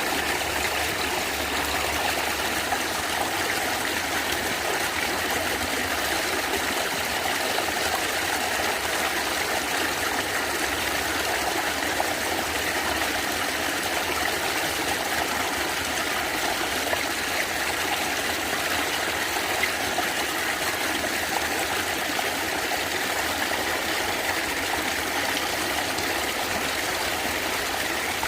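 A stream of water running and gurgling steadily over stones, an even rushing sound without breaks.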